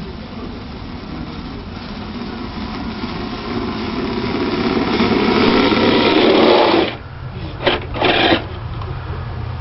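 Radio-controlled vehicle's motor whirring under throttle, getting steadily louder for several seconds, then cutting off suddenly, followed by two short blips of throttle.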